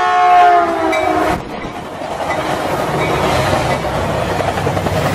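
Caltrain train 309 passing at speed: the horn chord on the leading bilevel cab car is held, falls a little in pitch and stops about a second and a half in. It gives way to the rushing rumble and wheel clatter of the gallery cars going by, with a low hum building near the end as the MP36 locomotive pushing at the rear nears.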